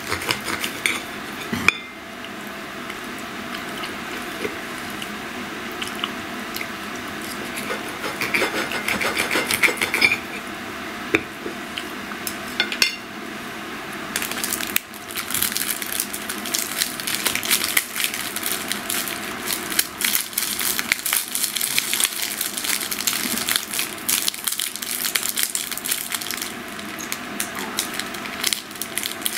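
Close-miked chewing and wet mouth noises of a person eating meat, a dense run of irregular clicks and smacks, mixed with light clinks of tableware.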